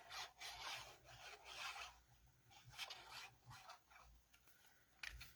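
Cardstock rubbing and scraping on the work surface in a series of soft, rasping strokes.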